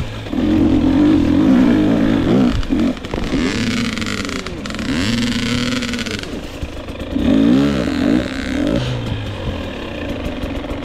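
Two-stroke dirt bike engine, a 2022 GasGas EX 250, revving up and down as it is ridden, its pitch climbing and dropping several times. A stretch of hissing noise rises over it about four seconds in.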